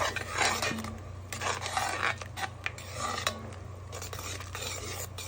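A metal utensil clinking and scraping in a pot while stirring, with scattered knocks of kitchenware, at uneven spacing over a steady low hum.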